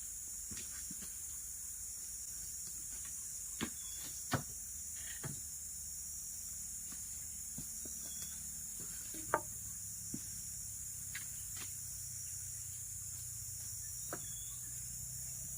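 Steady high-pitched chorus of forest insects, with scattered short clicks and knocks from camp handling now and then, the sharpest about nine seconds in.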